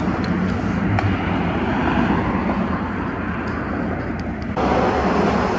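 A motor vehicle engine running steadily, with a low hum under a wash of noise that suddenly gets louder and brighter about four and a half seconds in.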